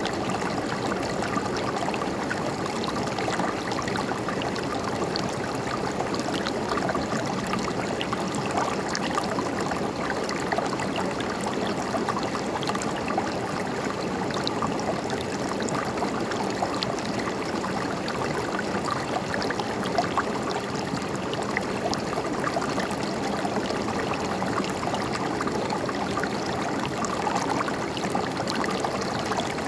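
River water flowing steadily, babbling with many small splashes and trickles.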